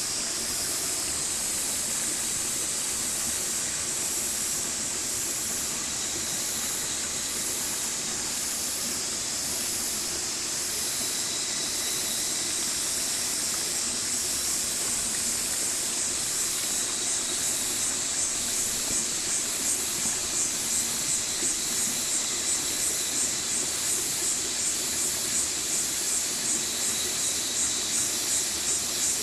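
Stream water flowing and rushing steadily. From about halfway through, a high-pitched rhythmic pulsing sound rises over it, a pulse roughly every half second.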